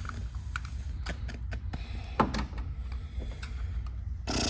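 Scattered light clicks and knocks from tools or parts being handled, over a low steady hum. A steady hiss starts near the end.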